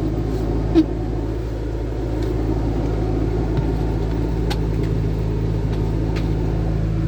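Steady drone of the Austin Allegro 1.5's four-cylinder engine and road rumble, heard from inside the car, with a single sharp click about a second in.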